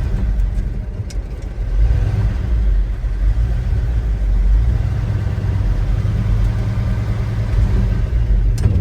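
Old pickup truck's engine running as the truck crawls along in first gear, a steady low rumble, with a short sharp click near the end.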